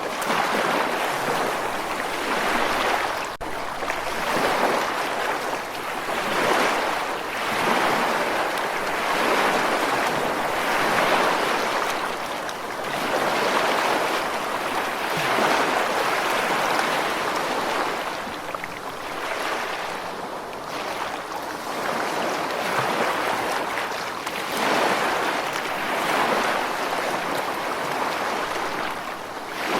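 Ocean surf washing continuously, a steady rush of water that swells and eases every two to three seconds as waves break and run up.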